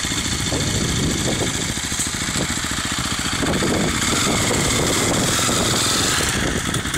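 Husaberg enduro motorcycle's single-cylinder engine running at low revs.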